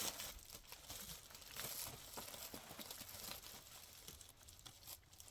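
Faint rustling with scattered small clicks and knocks.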